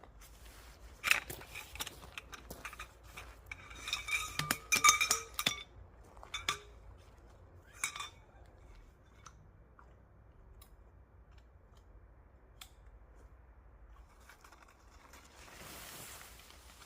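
Metal cookware and utensils clinking and clattering, a quick run of ringing knocks about four to five seconds in, then a few single clinks before it goes quiet; a soft rushing noise swells near the end.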